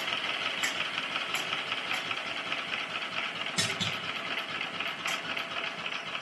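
Vintage Lister Petter type A stationary engine running steadily after a long lay-up, with a few short clicks over the top. Its spark and carburettor have only just been set up.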